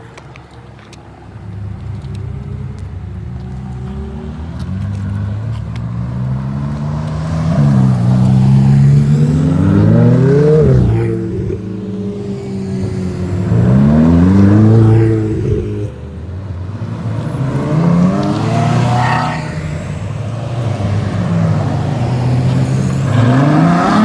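Ferrari sports cars accelerating past one after another, each engine note climbing in pitch through the revs and dropping sharply at a gear change.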